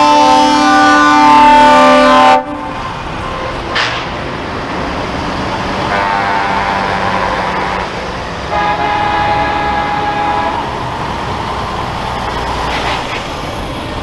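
Truck air horns sounding as trucks drive past. A loud horn chord of several tones cuts off about two seconds in. Two quieter horn blasts follow later, over the steady noise of the passing trucks' engines.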